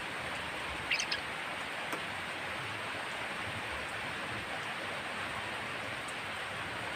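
A kapas tembak bird gives one brief, harsh call about a second in, a quick cluster of short notes, over a steady hiss.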